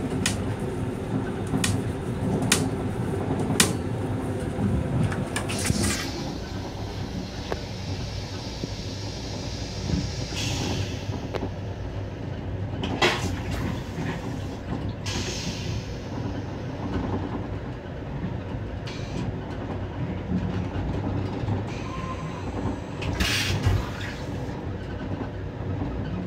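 Metro-North M7 electric railcar running, its steady rumble and rail clatter heard inside the car's small restroom. Sharp clicks come in the first few seconds, and short rattles come now and then.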